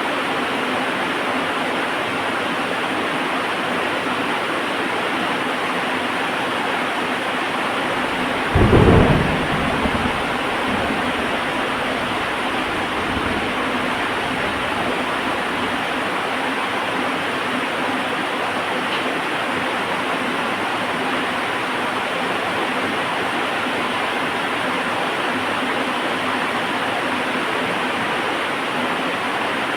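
Steady heavy rain, with a sudden loud thunderclap about nine seconds in that trails off into a low rumble over the next several seconds.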